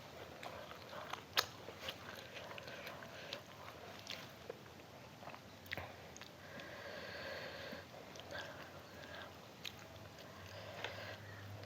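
Close-miked chewing and biting of food, with scattered sharp mouth clicks and smacks, the sharpest about a second and a half in.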